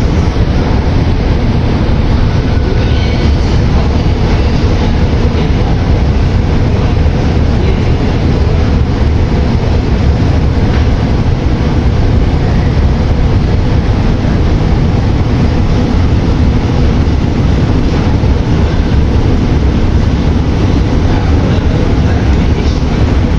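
Metro train running, a loud steady rumble that does not let up.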